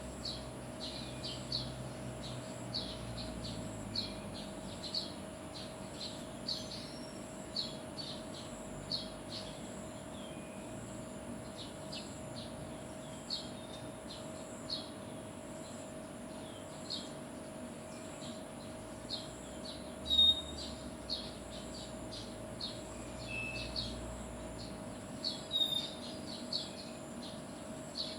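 Small birds chirping: short, high chirps repeating about once or twice a second, over a steady hum. A louder chirp stands out about twenty seconds in, and a few more come close together near the end.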